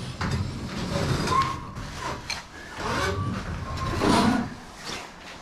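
Hands working a hydraulic quick-connect coupler with a clamp tool, metal scraping and sliding with short squeaks, loudest about four seconds in, as the pressure in the line is relieved so the coupler can come apart.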